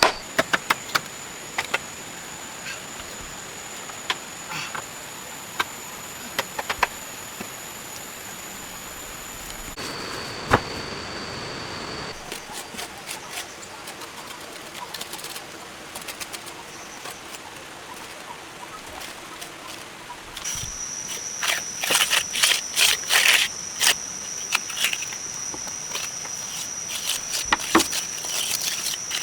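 Rainforest insects droning at a steady high pitch that shifts twice, with scattered sharp knocks or taps that come in a quick run about two-thirds of the way through.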